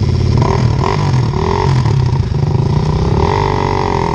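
Dirt bike engine running hard under load on a steep hillclimb, its revs wavering and then rising a little about three seconds in.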